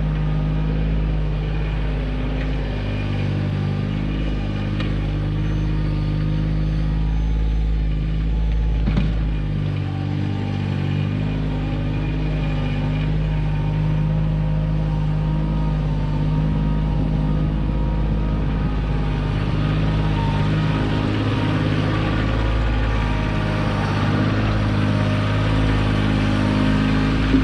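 Kioti compact tractor's diesel engine running steadily while the backhoe digs, its pitch shifting slightly at times, with a single brief knock about nine seconds in.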